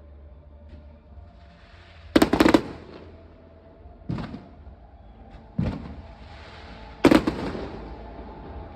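Fireworks exploding: a loud cluster of bangs about two seconds in, two smaller single bangs around four and five and a half seconds, and another loud cluster near the end that fades out slowly.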